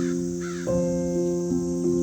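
A crow cawing twice, about half a second apart, over soft piano music, with a steady high insect-like hiss behind.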